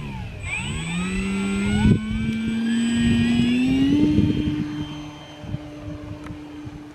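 Electric motor and propeller of an Arrows Husky RC plane throttling up with a rising whine, then holding a steady pitch as it fades into the distance. Gusty wind buffets the microphone underneath.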